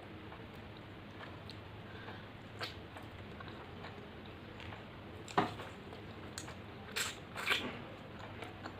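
A person eating rice and fish curry: quiet chewing and mouth sounds, with a few short sharp smacks, the loudest about five seconds in and two more near the end, over a steady low hum.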